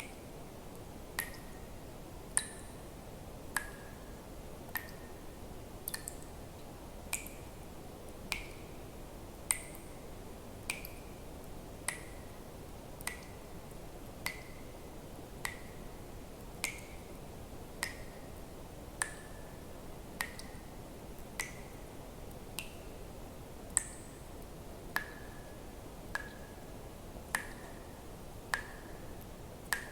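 Water drops falling one at a time, evenly about once every 1.2 seconds, each a short plink with a brief ring whose pitch shifts a little from drop to drop, over a faint steady background hiss.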